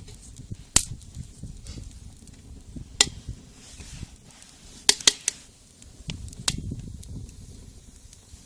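Sharp snaps and cracks of dry wood, five in all with two close together near the middle, over low rustling.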